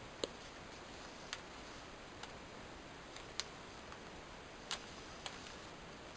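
Sheet of origami paper being handled and creased: about six short, sharp clicks and taps at uneven intervals over a faint steady hiss.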